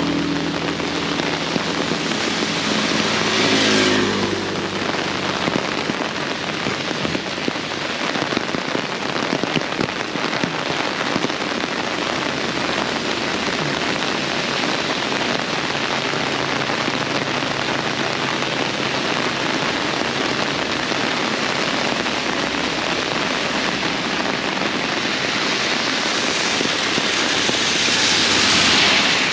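Heavy rain pouring steadily. A vehicle engine passes in the first few seconds, and the hiss swells louder near the end.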